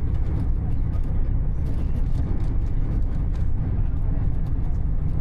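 Passenger train running at speed, heard from inside the carriage: a steady, even rumble of wheels and running gear, with faint scattered clicks over it.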